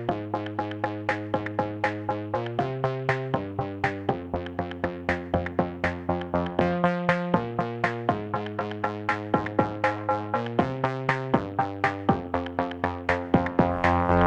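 Instrumental backing track of synthesizer chords over a steady drum-machine beat, about three to four hits a second, with the chords changing every second or so and no singing.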